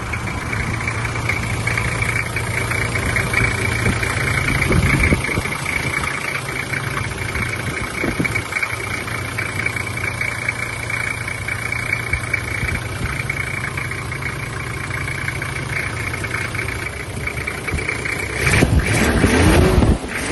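Toyota Land Cruiser pickup's 4.2-litre inline-six diesel engine idling steadily. A louder, noisier stretch comes near the end.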